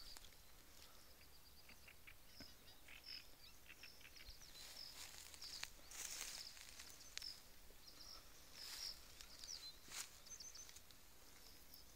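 Faint small-bird chirping: many short, high calls repeating throughout, over a quiet open-air background, with a few short rustles.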